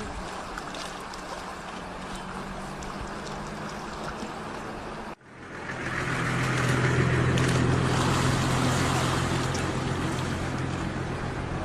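A motor running steadily. About five seconds in there is a sudden cut to a louder motor with a deeper hum and a rushing noise, which swells in over about a second.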